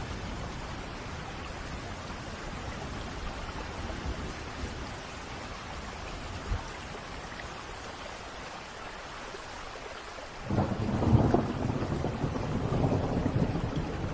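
Steady rain falling. About ten seconds in, a rumble of thunder breaks in and grows louder, with crackling peaks.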